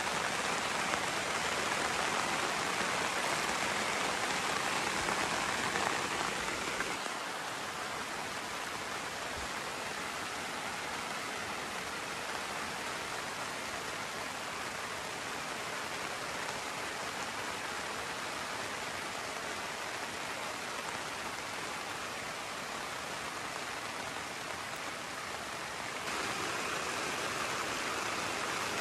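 Steady rain falling, a continuous even hiss. About a quarter of the way in it turns softer and duller, and near the end it grows louder again.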